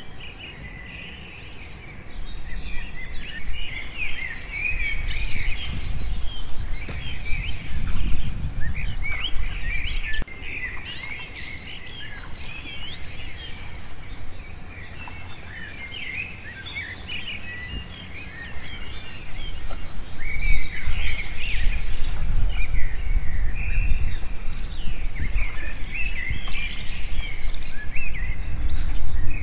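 Many birds chirping and twittering, short quick calls overlapping throughout. Under them a low rumbling noise comes and goes and is loudest in the second half.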